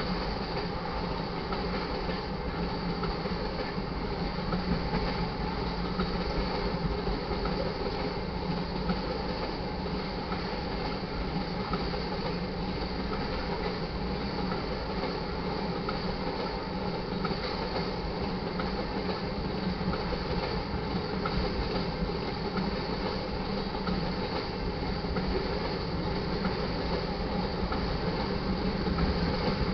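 Railroad tank cars of a crude oil train rolling past steadily, their steel wheels rumbling and clattering on the rails.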